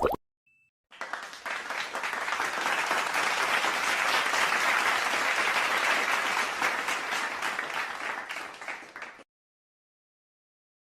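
Applause sound effect: a crowd clapping. It starts about a second in, builds, holds steady, then thins out and stops about nine seconds in.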